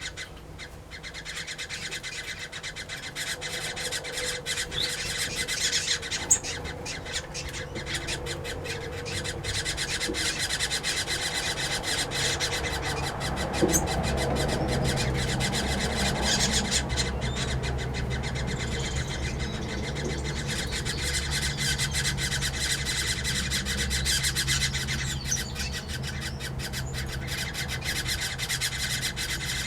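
A mixed aviary of finches, waxbills and parrots chattering and calling all at once, many overlapping calls and squawks. About halfway through, a steady low rumble joins in underneath.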